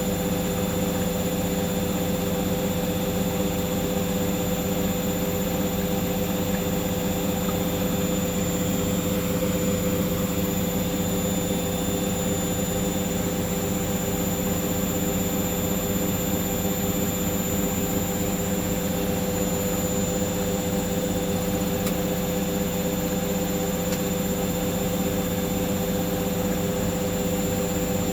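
Hoover washing machine in the final spin of a cotton 90 wash, its drum spinning at high speed with a steady motor whine and drum hum that holds constant.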